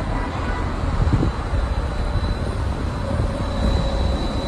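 A car in motion: a steady low rumble of road and wind noise with a faint thin whine over it.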